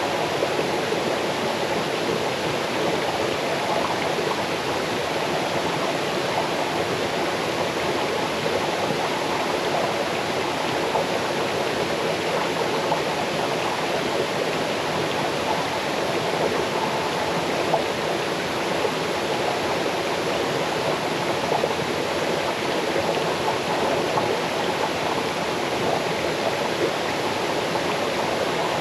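A small waterfall cascading into a stream: a steady rush of falling and flowing water with faint splashes.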